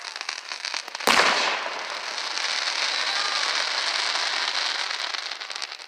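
Aerial firework shell: crackling as it rises, a loud bang as it bursts about a second in, then several seconds of dense crackling from the falling stars, fading out near the end.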